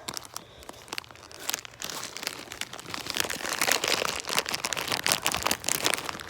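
Footsteps crunching and crackling through dry leaves and twigs on the woodland floor, getting busier and louder about two seconds in.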